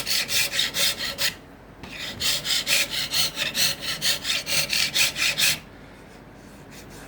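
A hand file rasping across acacia wood in quick, even back-and-forth strokes, about three a second. It pauses briefly just after a second in, resumes, and stops about five and a half seconds in.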